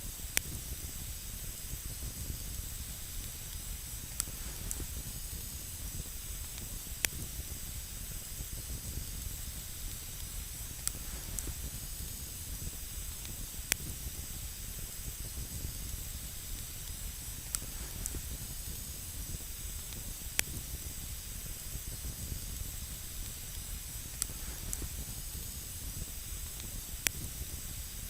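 Wood campfire burning with a steady hiss, broken by sharp single crackles and pops of burning wood every few seconds, about a dozen in all.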